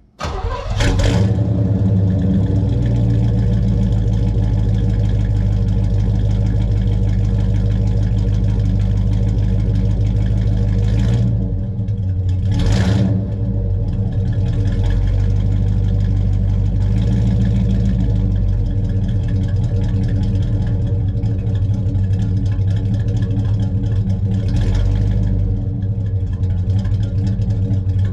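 Chevelle's engine firing up through a new 2.5-inch dual exhaust with single-chamber mufflers, catching within the first second and then idling steadily with a deep exhaust note.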